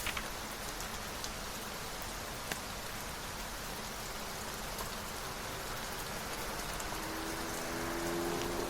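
Steady rain falling, with scattered sharp drop ticks. A low humming tone comes in during the last couple of seconds.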